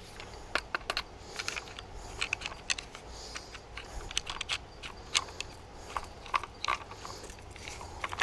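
Irregular small clicks and rattles of plastic and metal parts being handled and fitted together: a protective cap coming off and a pressure washer's spray wand being fitted to its trigger gun.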